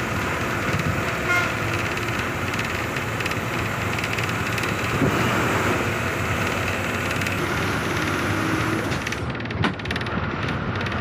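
Steady engine and road noise heard from inside a moving bus, with a single sharp knock near the end.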